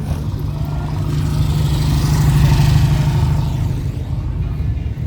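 A motor vehicle passing by, its sound swelling to a peak around the middle and then fading, over a steady low rumble.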